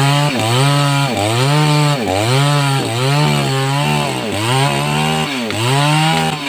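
A 588X two-stroke chainsaw cutting sengon wood at high revs. Its pitch drops and recovers in a repeating rhythm, about once a second, as the chain bogs under load in the cut and picks up again.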